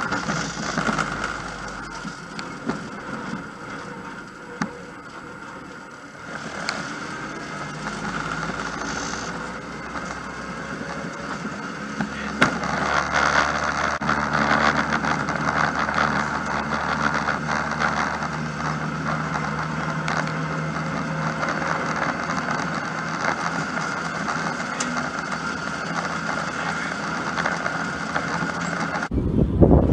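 Car engine running and road noise heard from inside a stripped-out rally car's cabin, with rattles. The engine picks up about six seconds in and again about twelve seconds in, then holds steady revs.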